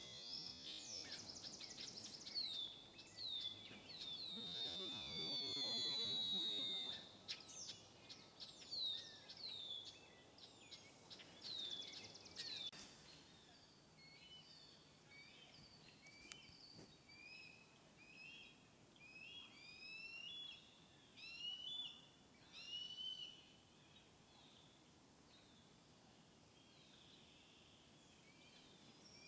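Small birds calling: many quick, high, downward-sliding notes overlapping in the first half, then scattered chirps that die away near the end.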